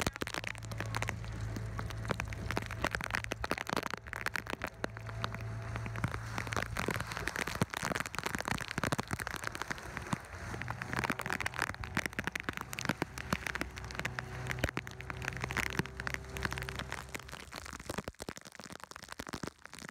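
Heavy rain pelting a small boat and the sea around it in a squall: a dense, continuous patter of drops. A steady low hum runs underneath.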